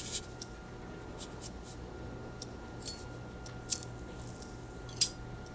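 A handful of short, sharp high-pitched clicks spaced irregularly over a faint steady low hum.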